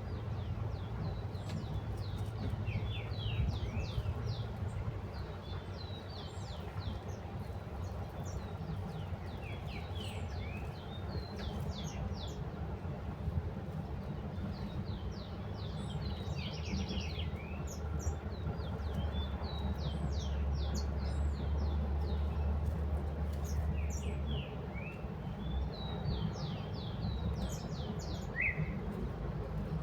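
Small birds chirping in quick runs of short high notes, a phrase every few seconds, over a steady low hum.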